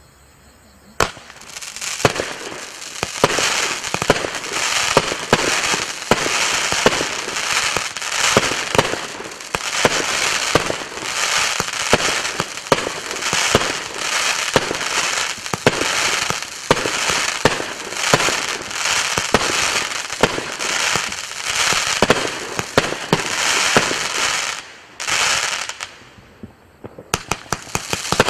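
124-shot firework compound cake (Wolff 'Jackhammer') firing: sharp launch shots about once a second, each followed by dense crackling from the crackling-effect stars. Near the end it goes briefly quieter, then the shots pick up again.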